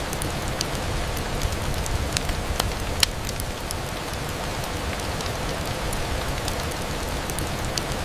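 Steady rain falling on a window pane, with scattered sharp drop ticks; the loudest tick comes about three seconds in.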